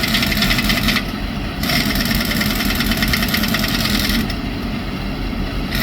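Pneumatic impact wrench running on a truck wheel's lug nuts, a fast steady hammering that pauses briefly about a second in and eases off again near the end.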